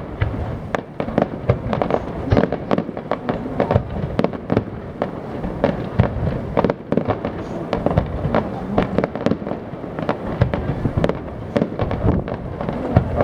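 Aerial fireworks display: a dense, continuous barrage of bangs and crackles, several a second, over a low rumble.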